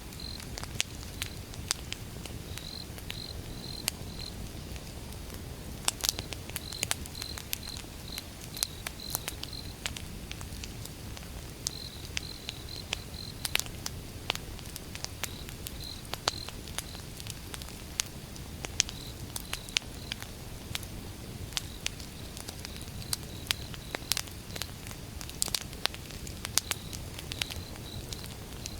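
Wood fire crackling, with sharp irregular pops over a low steady rumble. An insect chirps in short runs of quick high-pitched pulses over it.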